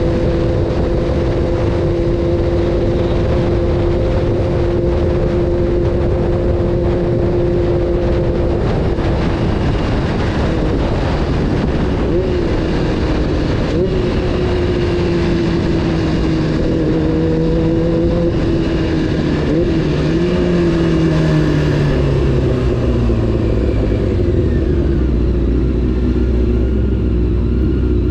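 Honda CBR600 F4's inline-four engine running at steady revs for about nine seconds, then the revs rise and fall a few times and slide down near the end, over a constant rushing noise of riding.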